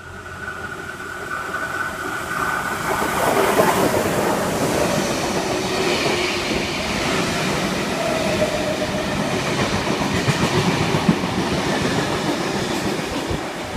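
V-set double-deck intercity electric train running past on the platform road, its wheels clattering over the rail joints. The sound builds over the first few seconds from a steady whine into a loud, sustained rumble, easing slightly near the end.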